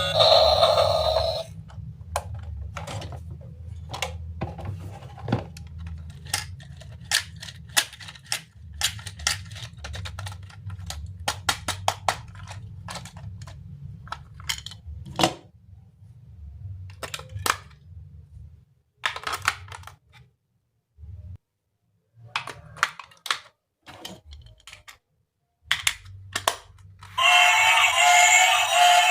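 Plastic toy train parts being handled and snapped together: many sharp, irregular clicks and taps over a low steady hum, with background music at the start and near the end.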